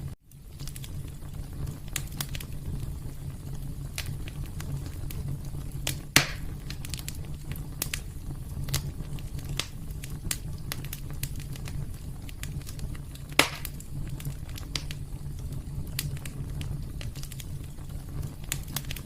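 Fireplace fire crackling steadily over a low rumble, with many small snaps and two sharp, louder pops, about six seconds in and again about thirteen seconds in. The sound cuts out for a split second just after the start.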